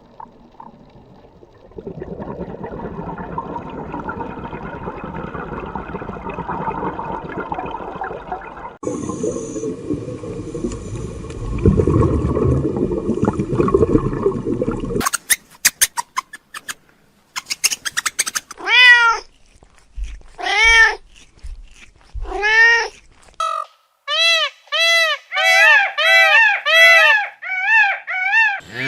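A cat meowing over and over, each meow rising and falling in pitch, the meows coming faster, about two a second, near the end. The first half holds several seconds of noise and a quick run of clicks.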